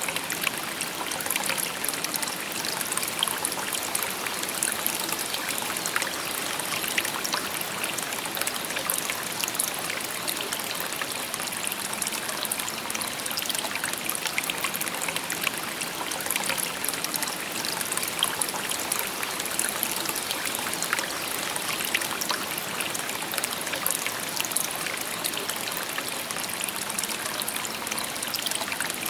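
Shallow river babbling steadily over stones, a constant rushing trickle flecked with small splashes and gurgles.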